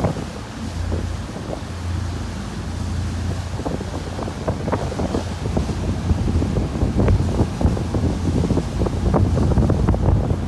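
Wind buffeting the microphone on a tour boat under way, over the steady low drone of the boat's engine; the gusts grow louder toward the end.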